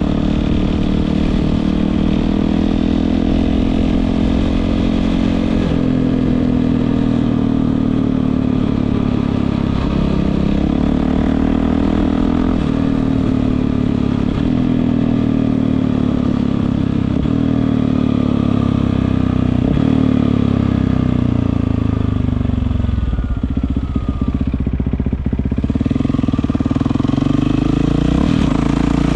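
Yamaha WR450F single-cylinder four-stroke motorcycle engine through an Akrapovič exhaust, its note climbing and falling again and again under throttle. It settles to a lower, steadier note a few seconds before the end, then climbs again.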